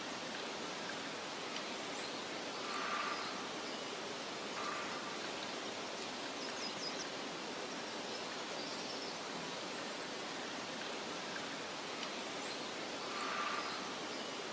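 Steady soft hiss of wind in a meadow, with a few faint short bird chirps now and then and two slightly louder brief calls, about three seconds in and near the end.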